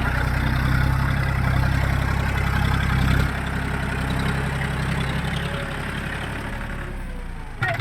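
Heavy diesel engine running steadily, dropping slightly a little over three seconds in and easing lower toward the end.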